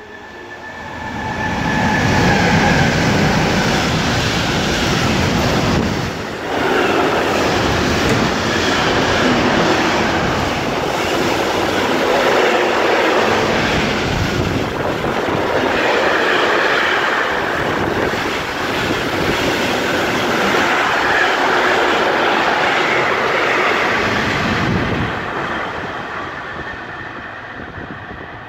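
Container freight train hauled by Class 185 and Class 193 Vectron electric locomotives passing through the station without stopping. It grows loud as the locomotives arrive about two seconds in, and the container wagons keep rolling past for about twenty seconds before the sound fades away near the end.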